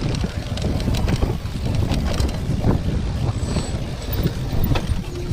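Wind rumbling on the microphone of a mountain bike's camera as the bike rides a rough trail, with frequent short clicks and rattles from the bike over the ground.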